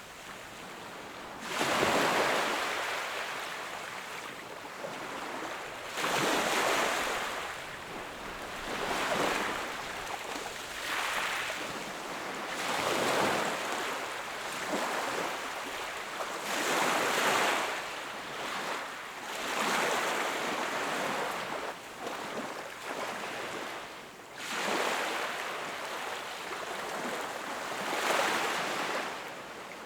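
Sea waves breaking and washing up on the shore, one surge after another every few seconds, each swelling and then draining away.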